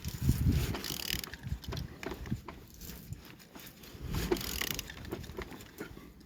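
Engine being turned over by hand with a wrench on the crankshaft: irregular clicks and clanks of the tool and the turning engine, louder in two spells of about a second, near the start and about four seconds in. The engine turns with good compression.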